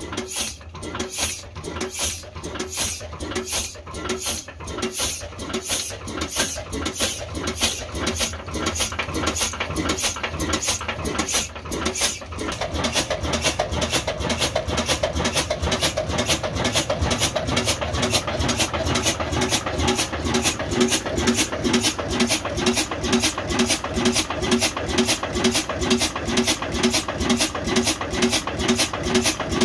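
Old Ruston stationary engine running with a slow, even beat of about two strokes a second, which quickens to about three a second and grows louder about twelve seconds in as the engine picks up speed.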